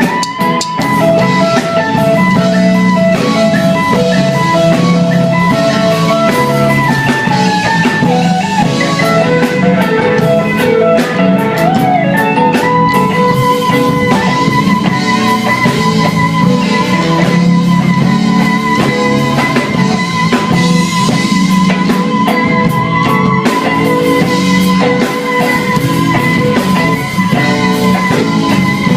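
Live soul band playing an instrumental passage, guitar and long held notes over a steady drum kit beat.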